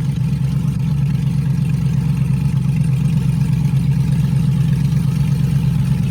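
LS-swapped V8 engine running steadily at low revs while the car is driven slowly in a low gear, an even, deep drone without any revving.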